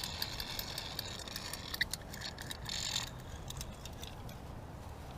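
A small ice-fishing reel ticking rapidly as line pays out under a sinking bait feeder. The clicks thin out about three seconds in.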